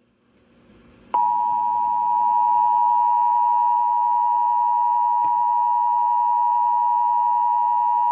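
Emergency Alert System attention signal on the radio: a steady, loud two-tone alarm tone that starts abruptly about a second in. It announces a severe thunderstorm warning about to be read.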